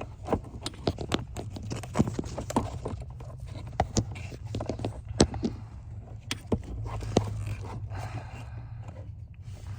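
Irregular clicks, taps and scrapes as the brake pedal arm is handled and pushed back against the brake-light switch, over a low steady hum.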